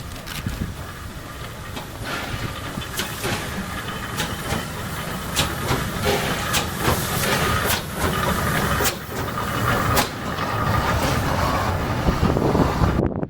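A train passing close by: a rushing rumble with repeated sharp clicks of wheels over the rail joints. It cuts off abruptly just before the end.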